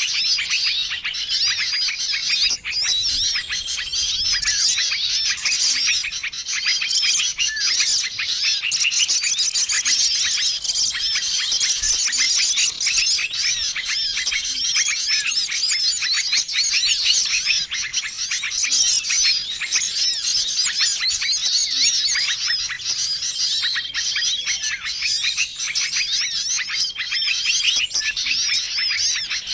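A dense, unbroken chorus of many small songbirds chirping and twittering at once, with a short steady whistled note recurring every few seconds. It is a combined bird-lure (pikat) recording made to draw in wild small birds.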